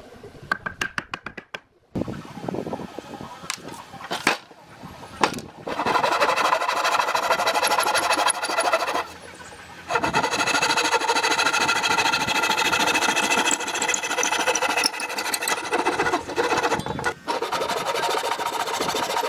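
An electric power tool's motor running steadily in two long stretches, with a short pause about nine seconds in, after a few sharp clicks at the start.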